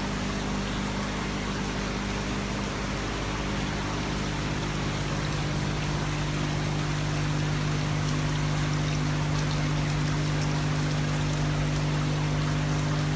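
Tiered polyresin floor fountain running: water trickling and splashing from tier to tier, with a steady low hum underneath.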